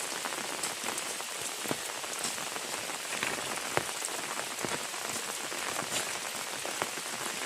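Heavy rain pouring down: a steady hiss flecked with scattered sharper hits of single drops.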